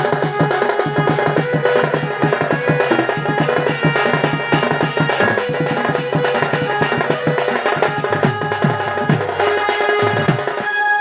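Folk music for danda nrutya: fast, dense drumming under held melodic tones.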